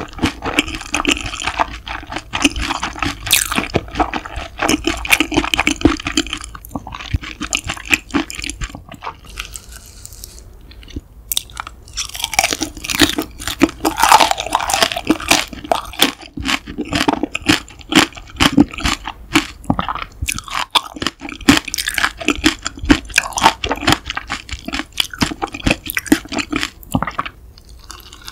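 A person chewing food close to the microphone, with repeated crunchy bites and chewing. There is a brief lull about ten seconds in.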